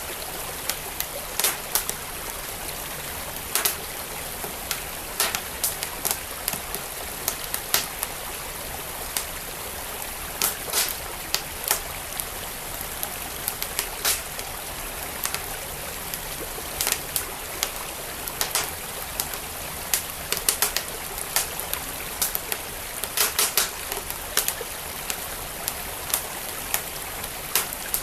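A wood fire crackling with sharp, irregular pops, over the steady rush of a flowing stream.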